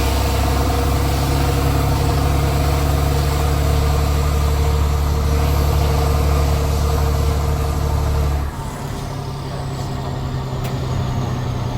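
Straight-piped Cummins C8.3 inline-six diesel of a school bus running steady under load, then dropping off suddenly about eight and a half seconds in as the engine note falls, with a faint high whine falling away afterwards.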